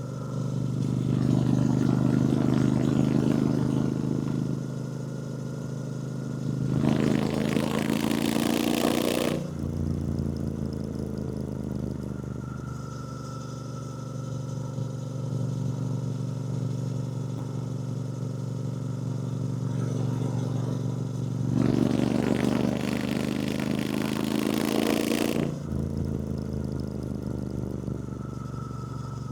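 Triumph Bonneville T120's 1200 cc parallel-twin engine running under way. It pulls harder several times, twice with a loud rush of wind that cuts off sharply when the throttle is closed.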